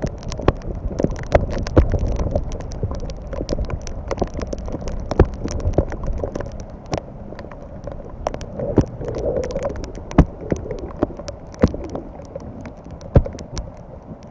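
Rain falling, with many irregular sharp taps of drops landing close to the microphone over a steady low rumble.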